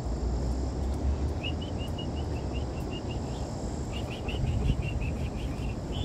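A small bird chirping in two quick runs of short, high notes, about five a second, over a steady low outdoor rumble.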